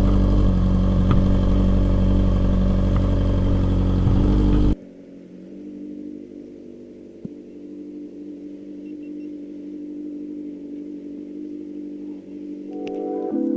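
Stearman biplane's radial engine running loud while taxiing. Almost five seconds in it cuts abruptly to a much quieter, steady engine hum.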